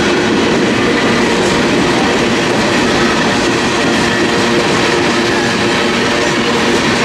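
Freight train tank cars rolling past: a steady, loud rolling noise of steel wheels on the rails, even throughout.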